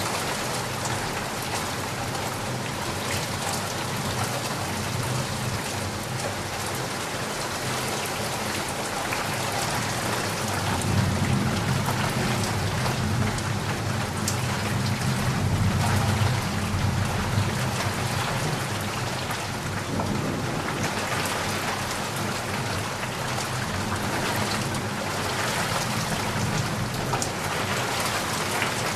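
Steady heavy rain falling and pattering on surfaces. A low rumble of thunder swells and fades in the middle.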